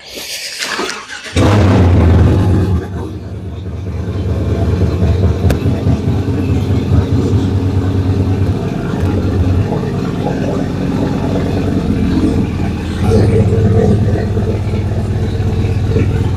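A motor starts abruptly about a second and a half in and runs steadily and loudly with a low hum.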